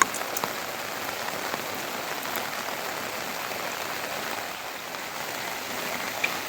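Steady rain falling, with a few sharper drop taps, the loudest right at the start.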